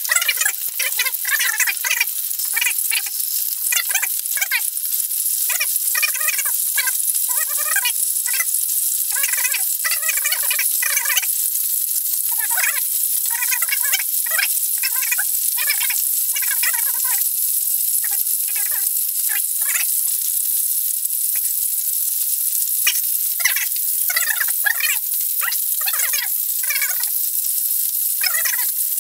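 Pork ribs frying in hot oil in a frying pan: a steady sizzle with irregular crackling pops of spattering fat that come and go in clusters.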